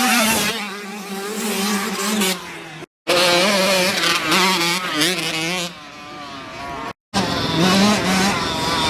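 Dirt bike engines running hard and revving up and down while racing. The sound cuts out abruptly twice, for a fraction of a second each time.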